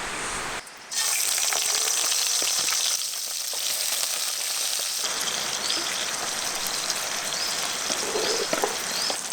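Food frying in a hot pan outdoors, a steady sizzle that starts about a second in after a short drop-out.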